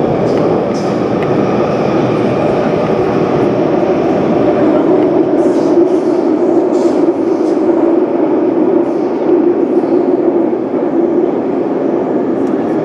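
Running noise of an MTR West Rail Line SP1900 electric train, heard from inside a passenger car. A steady rumble of wheels and motors underlies a low hum that grows stronger in the middle, with a few light clicks about halfway through.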